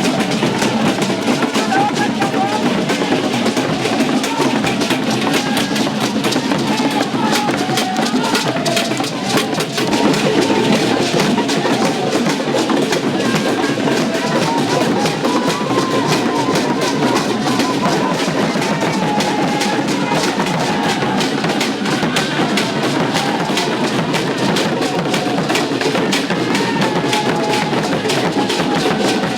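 Festival music driven by fast, dense drumming and percussion, steady and loud throughout.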